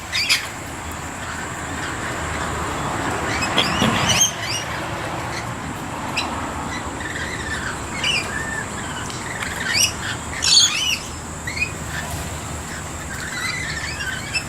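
A flock of rainbow lorikeets giving shrill, screechy calls in scattered bursts, busiest about ten seconds in. A rushing noise builds and stops abruptly about four seconds in.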